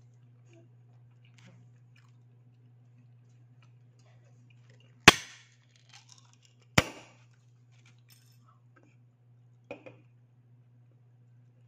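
A person faintly chewing a chicken sandwich over a steady low hum. Two sharp knocks come about five and seven seconds in, and a lighter double knock near ten seconds.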